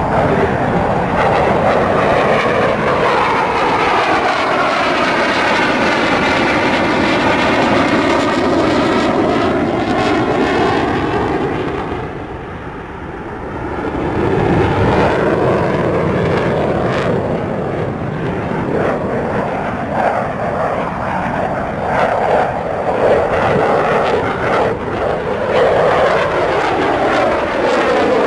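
Eurofighter Typhoon's twin Eurojet EJ200 turbofans during a display pass: a loud, steady jet rush with a sweeping, changing tone as the fighter moves across the sky. It fades about halfway through, then builds again as the jet comes back round.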